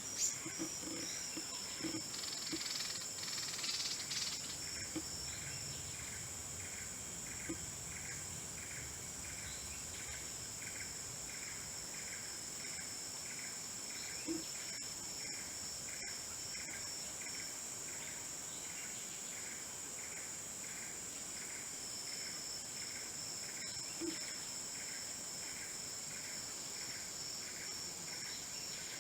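Insects trilling in the background: a steady high-pitched drone, with a second regular chirp repeating about twice a second. A few soft knocks come in the first few seconds.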